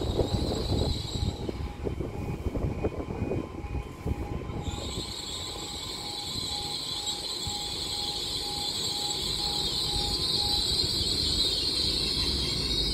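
Great Western Railway Class 800 train running into the platform and slowing: wheels knocking and rumbling over the rails at first, then a steady high-pitched squeal from about five seconds in as it brakes to a stop.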